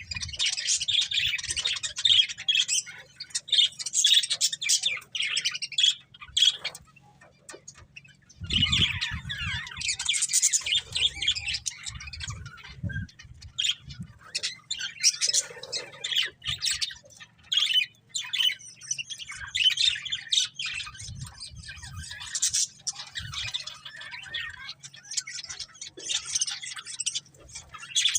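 Pair of budgerigars chattering in rapid, scratchy chirps and squawks, pausing briefly about a third of the way through before starting again, with a few low thumps.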